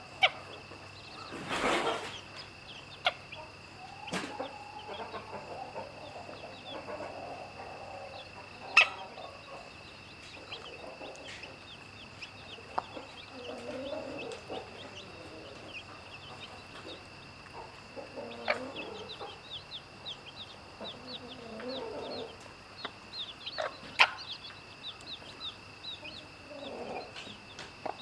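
Mother hen clucking low to her chicks, with the chicks peeping high and often throughout. A few sharp clicks stand out, and a steady high-pitched hum runs underneath.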